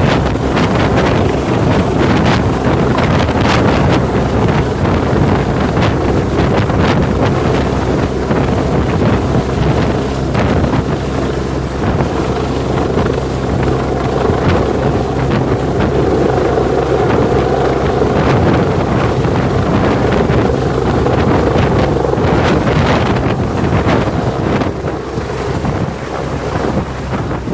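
Government Flying Service helicopter flying low overhead, its engine and rotor noise loud and steady, with heavy wind buffeting the microphone.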